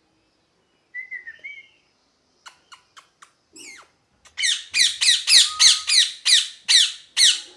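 Indian ringneck parrot calling: a few soft chirps and clicks, then a run of loud, harsh screeches about three a second, each falling in pitch.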